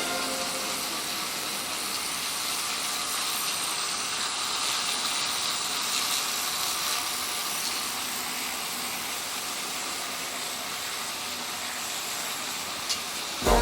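HO-scale model train, a Roco BR 23 steam locomotive with its string of ballast wagons, running on the track: a steady rushing noise of wheels and motor with no clear beat.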